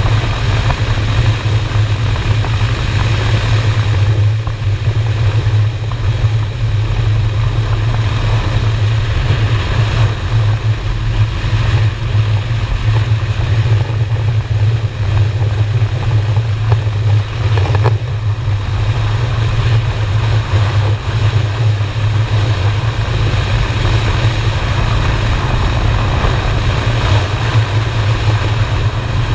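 Honda Shadow V-twin motorcycle engine running steadily on the move: an unbroken low drone, with an even rush of noise over it.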